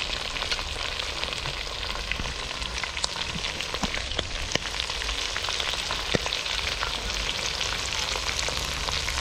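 Hot oil sizzling steadily as food fries, with frequent sharp crackles and pops.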